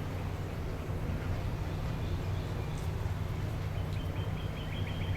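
A bird's rapid trilled call, a held high note over quick repeated notes at about eight a second, starting about four seconds in, over a steady low rumble.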